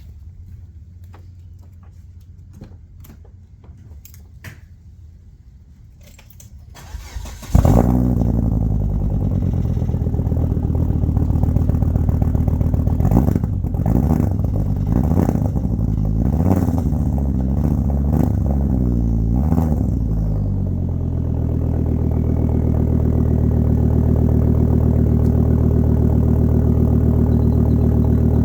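Cold start of a Volvo V70 XC 2.4T's turbocharged inline five-cylinder through a 3-inch exhaust with a catted downpipe and only a resonator in the cat-back. After a few faint clicks the starter cranks briefly, and the engine catches with a sudden loud burst about seven and a half seconds in. It runs at a fast cold idle; the pitch rises and falls a few times, then settles into a steady idle for the rest.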